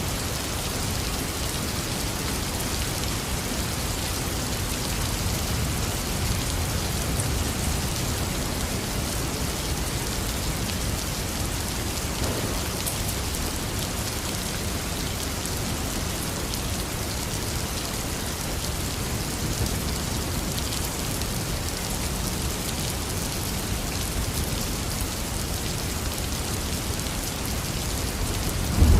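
Heavy rain falling steadily: a dense, even hiss of drops hitting surfaces. Right at the very end, a loud, low rumble of thunder breaks in suddenly.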